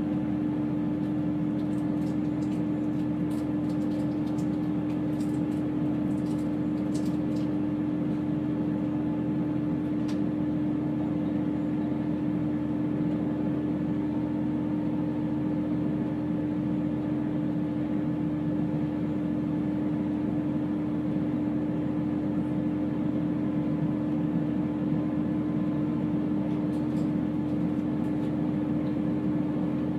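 Chiltern Railways diesel train heard from inside, a steady hum with one constant low tone. A few faint clicks sound in the first several seconds.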